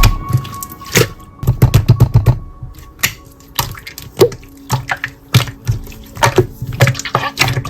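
Slime being squished and pressed by hand, making irregular sharp clicks and pops.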